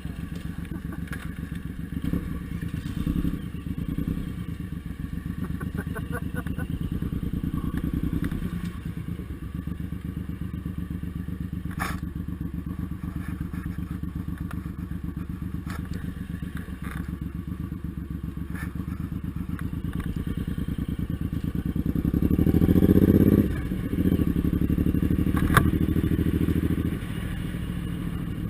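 Suzuki Intruder M1800R's big V-twin engine running with an even, lumpy beat; about three-quarters of the way through, the revs rise and it runs louder for a few seconds before settling back.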